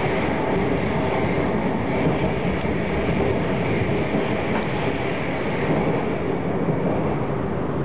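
Steady running noise of a train in motion, heard from on board as it travels along the track.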